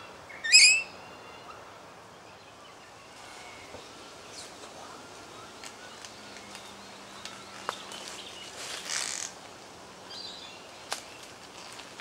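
A rainbow lorikeet's single short, harsh screech about half a second in, followed by quieter scattered clicks and a brief rustling hiss.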